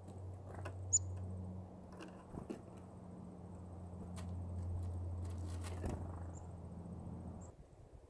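Light ticks and rustles of small birds at a pile of sunflower seed, with a brief high chirp about a second in, over a steady low hum that cuts off near the end.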